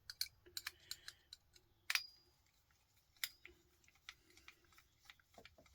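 Faint, scattered clicks and taps of a small screwdriver working at a bolt, a sharper click about two seconds in and another a little after three seconds.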